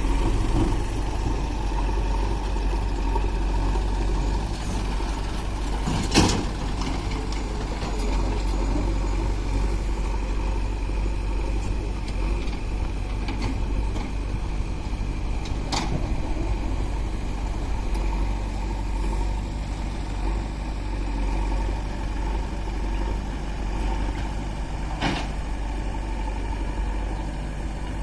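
Heavy diesel engine running steadily, with a few short sharp knocks over it.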